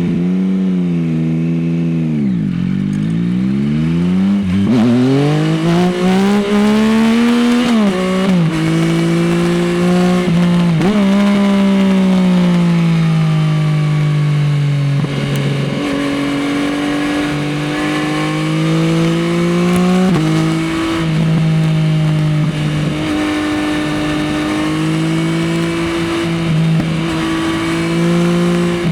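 Yamaha XSR900's three-cylinder CP3 engine through an Akrapovič exhaust, heard from the rider's seat. The revs drop low a few seconds in, then climb hard through the gears, with short dips at the shifts. After that they hold fairly steady with small rises and falls through the corners.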